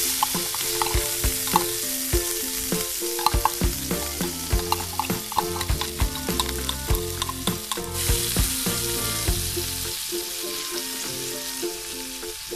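Corned beef sizzling as it fries in oil in a nonstick pan. A utensil scrapes the meat out of its can and clicks and scrapes against the pan as it is stirred, with many sharp taps.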